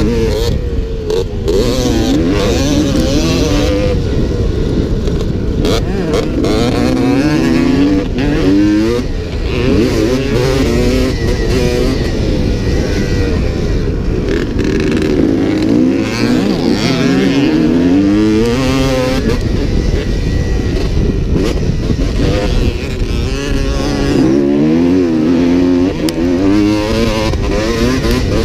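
Dirt bike engine revving up and down while riding, its pitch rising and falling over and over.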